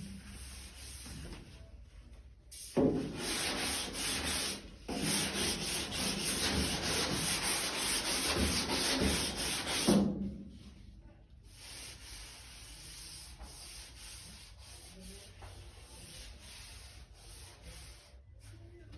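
Long sanding block pushed by hand over body filler on a car's quarter panel: a steady rasping hiss in two long runs, then softer rubbing from about halfway. Block sanding like this shows up the high and low spots in the bodywork.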